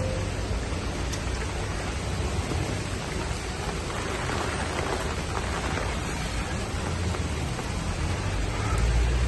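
Heavy rain falling, a steady dense hiss of rain hitting surfaces. A low rumble swells near the end.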